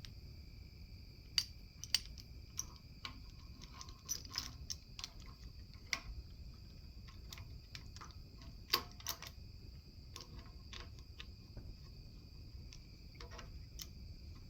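Scattered light metallic clinks and taps of tools and engine parts being handled, over a steady high cricket trill.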